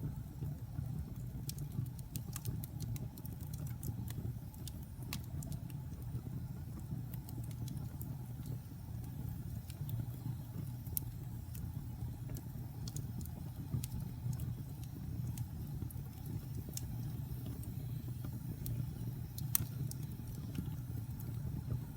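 Wood fire burning in a fireplace: a steady low rumble of flames with scattered sharp crackles and pops from the burning wood, one louder pop near the end.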